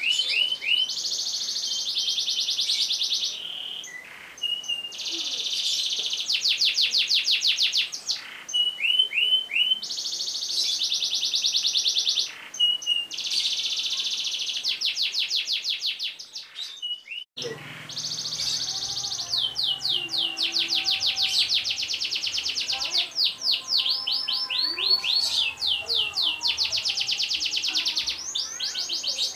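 Domestic canary singing long, fast rolls: blocks of rapid repeated high notes, with short falling notes between them. The song breaks off briefly a little over halfway and resumes with a faint low hum underneath.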